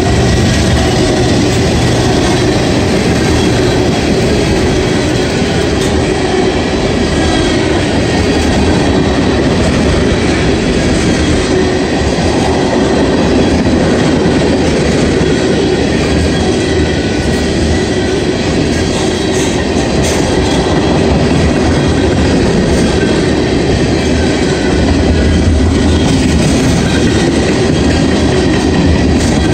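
Norfolk Southern freight train of ethanol tank cars rolling steadily past over a grade crossing: a continuous, loud, even noise of steel wheels running on the rails.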